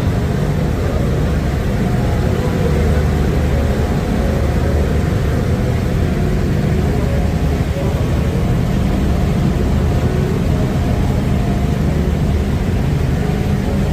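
A steady low engine drone, unbroken and even in pitch.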